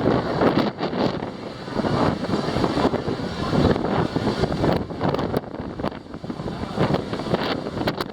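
Strong, gusty wind buffeting the microphone, a loud rumbling rush that surges and eases every second or so.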